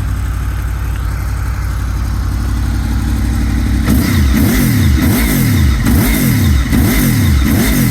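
2002 Honda VFR800 VTEC's V4 engine breathing through Arrow aftermarket silencers, idling steadily, then from about four seconds in revved over and over, its pitch rising and falling about twice a second.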